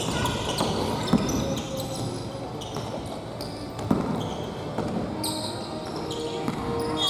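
Futsal ball being kicked and bouncing on a gym floor, with two sharp strikes about a second in and just before four seconds. Short high squeaks of indoor shoes on the court run under players' voices.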